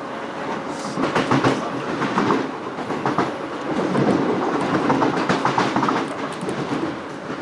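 Passenger train running at speed, heard from inside the carriage: a steady rumble of the wheels on the track with irregular clicks and clatter from the rails.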